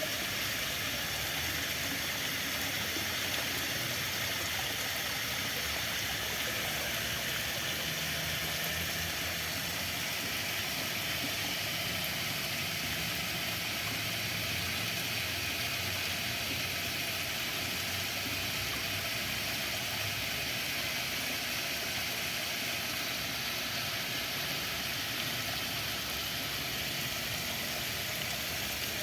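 Steady rushing of running water, even and unbroken, with a faint low hum under it through the middle.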